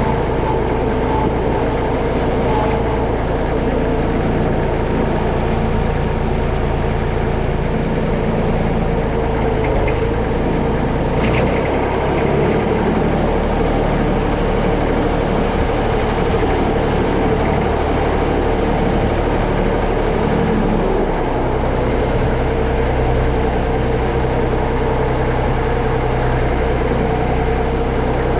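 Massey Ferguson 35X tractor engine running steadily, its note shifting about 11 seconds in and again about 21 seconds in.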